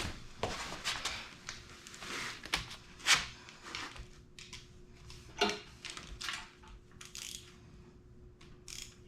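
Hand tools clinking and scraping on metal parts of a mini bike's brake as it is loosened, a run of irregular clicks and knocks, loudest about three seconds in and again past five seconds.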